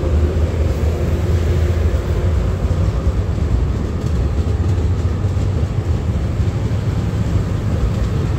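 MARC commuter train's coaches rolling past at low speed as the train pulls away from the station, a steady low rumble of wheels on the rails.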